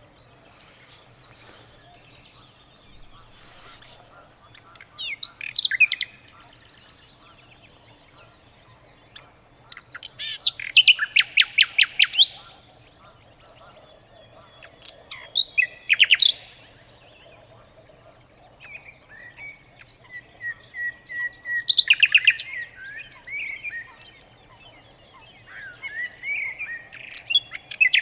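A songbird singing in repeated phrases every few seconds. Each phrase is a rapid run of sharp, high chirps lasting a second or two, with softer warbling notes between them, over a faint steady low hum.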